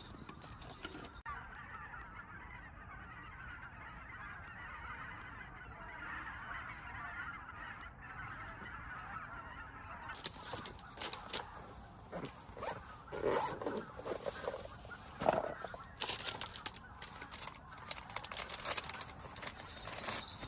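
Short honking bird calls, a few of them past the middle, over a steady hiss, with scattered clicks and knocks in the second half.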